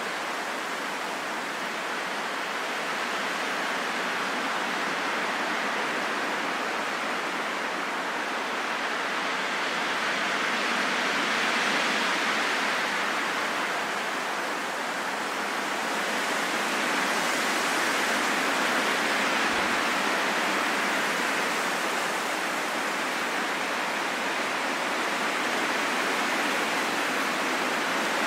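Steady wind noise, an even hiss with no tones or clicks, swelling gently about twelve seconds in and again from about seventeen seconds before easing slightly.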